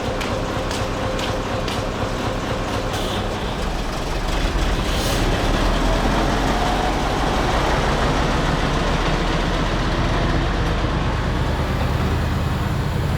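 A large truck's diesel engine running with a steady low rumble. It grows louder about four seconds in, and a faint rising whine comes in the middle.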